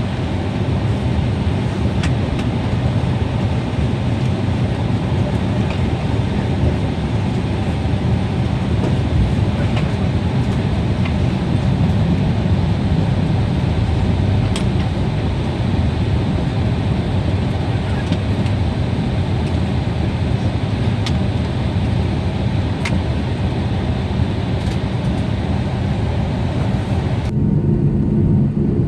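Steady low rumble of a vehicle in motion, with a few faint ticks. About a second and a half before the end it changes abruptly to a duller rumble with a low steady hum.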